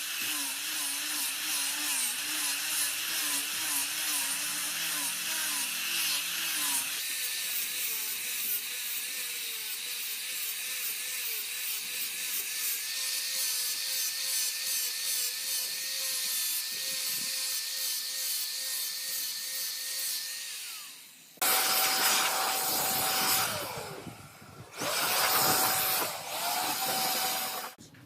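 Electric power tool working wood, its motor tone wavering up and down as it cuts. The sound changes abruptly twice, and near the end it comes as two louder runs with a steadier, higher motor tone.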